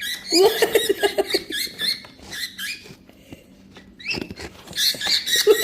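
Pet bird chattering in rapid short squeaks and chirps, falling quiet briefly mid-way, then a rising squeak about four seconds in followed by more chirps.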